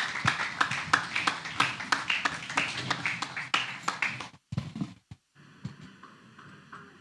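Rhythmic handclapping, about three claps a second, that stops abruptly about four and a half seconds in, leaving a faint steady hum with a few held tones.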